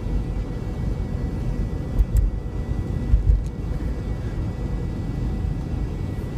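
Steady low rumble of a car driving on a snow-covered highway, heard from inside the cabin: tyre and engine noise at a slow, cautious speed. A couple of faint clicks about two seconds and three and a half seconds in.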